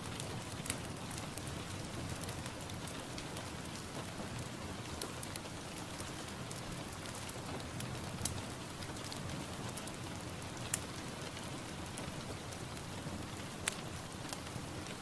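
Steady rain falling on a surface, with scattered louder individual drops ticking now and then.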